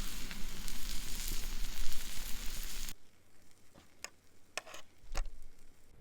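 Steak sizzling on a hot stone over a campfire, a dense steady sizzle that cuts off abruptly about halfway through. After it come a few scattered clicks.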